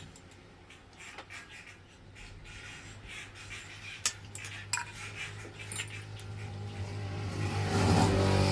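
Metal hand tools clinking and tapping sharply now and then against engine parts. A low droning hum swells over the last few seconds and is the loudest sound near the end.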